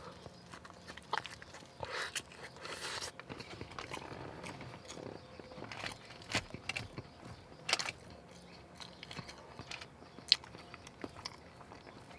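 Chewing a mouthful of chili cheese fries, with soft wet mouth sounds and a few sharp clicks of a plastic fork in the food tray.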